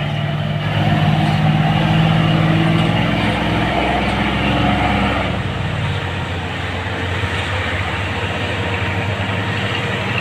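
Heavy diesel trucks' engines labouring up a steep climb, a deep steady drone that is loudest through the first half and eases off about five seconds in as a truck moves away.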